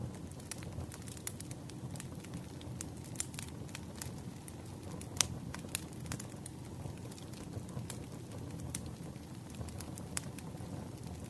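Campfire crackling: a steady low rumble of burning wood with frequent sharp pops and snaps, the loudest pop a little past the middle.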